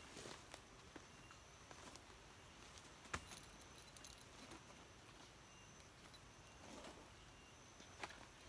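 Near silence: faint forest ambience with thin high insect-like tones that come and go, and a few small clicks, the sharpest about three seconds in.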